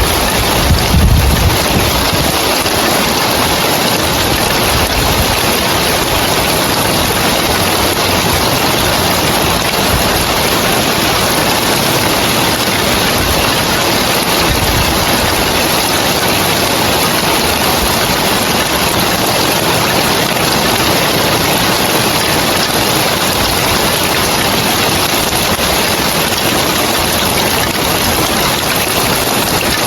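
Heavy rain falling steadily on a tiled roof, a dense even hiss. A brief low rumble comes about a second in.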